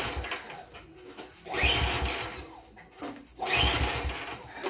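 Recoil pull-starter on a Cub Cadet 2X snowblower's 357cc PowerMore engine being pulled twice, each pull a brief whirring crank of the engine that dies away without it firing. The engine is a no-start, put down to bad gas.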